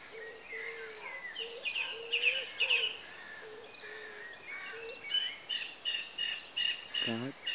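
Several birds chirping and calling: a low warbling call repeats again and again, with quick high chirps and whistles over it, then a fast, even run of chirps in the second half.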